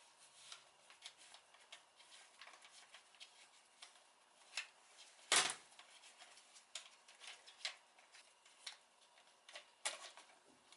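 Scattered light clicks and taps of hand tools and small metal parts being handled during engine repair work, with one louder knock about five seconds in.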